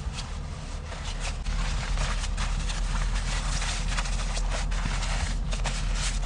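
Strong wind rumbling on the microphone, louder from about a second and a half in, with many irregular crunching clicks over it.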